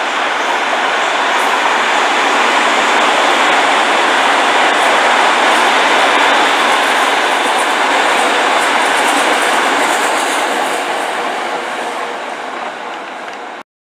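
Electric commuter train running past on the tracks below: a steady noise of wheels on rails that grows to its loudest about halfway through, fades away, and cuts off suddenly near the end.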